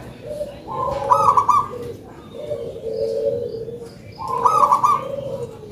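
Zebra dove (perkutut) cooing in repeated phrases: a higher, rolling note comes about a second in and again past four seconds, with lower coos between.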